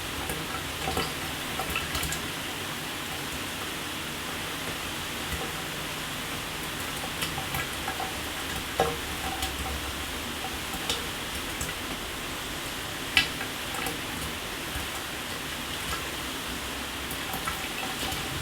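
Shower water running steadily, with scattered sharper drips and splashes landing on a hard surface; the loudest splashes come about 9 and 13 seconds in.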